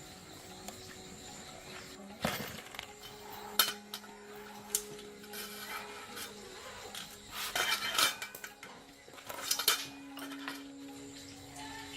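Metal tools and parts clinking and knocking as they are handled, a handful of sharp clinks at irregular moments.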